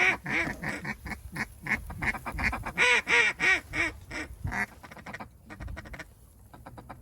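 Duck quacking in a quick run of calls, several a second, loudest about three seconds in and tapering off, followed by a quieter fast chatter near the end.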